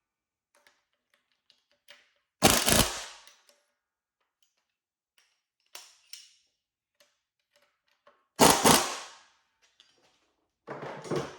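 Three sharp, loud bangs about six seconds and then two seconds apart, each ringing out for about a second, with faint light clicks and clinks between them.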